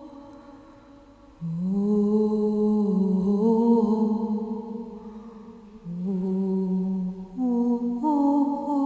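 A voice toning long, wordless held notes in a slow chant. Each note is sustained for several seconds, with a small step in pitch between them.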